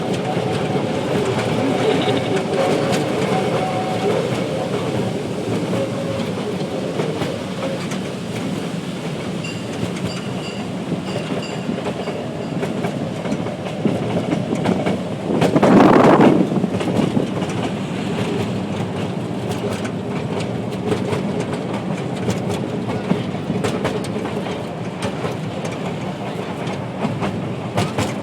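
Train running along the track, a continuous rumble of wheels on rails, with a louder rush of noise lasting about a second about halfway through.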